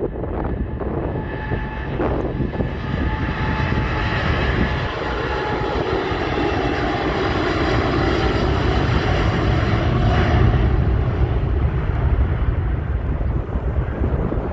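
Jet airliner's Rolls-Royce Trent XWB turbofans (Airbus A350) at takeoff thrust: a steady jet roar with high fan whine that slowly grows louder, peaking about ten seconds in, with wind buffeting the microphone.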